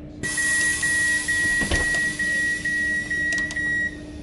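Train door warning beeps: a high, even beep repeated about twice a second for several seconds, over a steady low hum.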